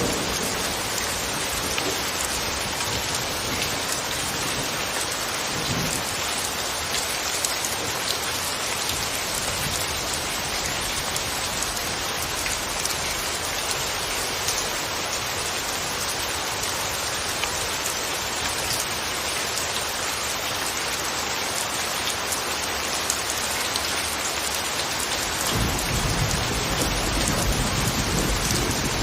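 Steady rain falling, an even hiss with scattered faint drop ticks. A low rumble comes in near the end.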